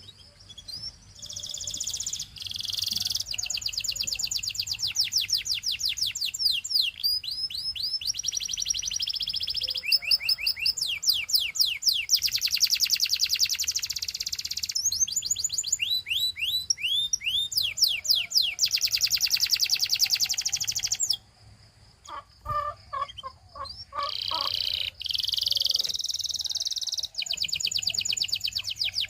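Domestic canary singing: long runs of fast trills of rapidly repeated high notes, each run giving way to a new phrase every second or two, with a short break about three-quarters of the way through before the song picks up again.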